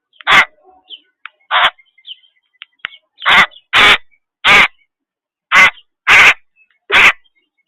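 A series of loud, short, harsh animal calls, about eight of them at uneven intervals, several coming in quick pairs.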